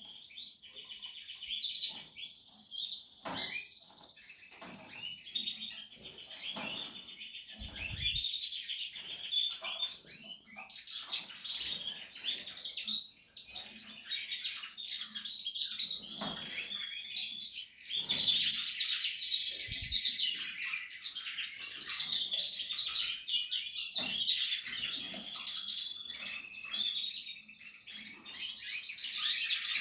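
Portuguese harlequin canaries singing: continuous warbling trills and chirps, with a few brief low knocks.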